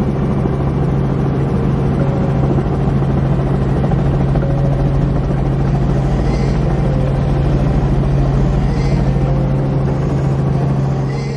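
Helicopter running in flight: a loud, steady low drone with a fast rotor flutter that holds constant, then cuts off near the end.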